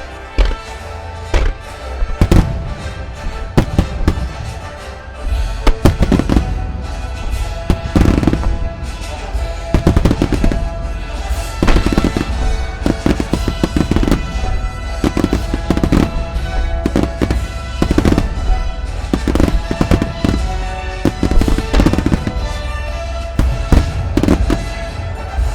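Marugo's grand-finale fireworks going off in a dense, continuous barrage, several loud bursts and booms a second, heard at close range. Music plays steadily under the bursts.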